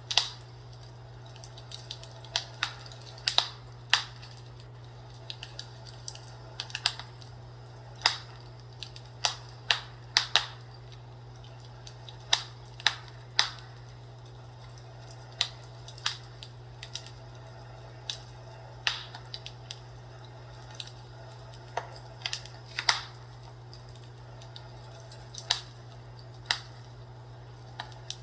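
Wood fire in a fireplace crackling, with irregular sharp pops and snaps, one or two a second, over a steady low hum.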